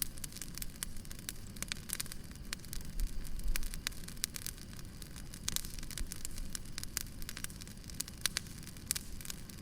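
Wood fire burning, with frequent irregular crackles and pops over a low rumble.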